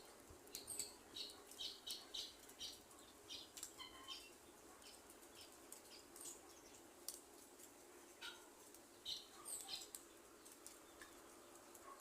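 Faint crackling of a small wood fire: irregular, high-pitched snaps and pops, clustered in the first few seconds and again around nine seconds in.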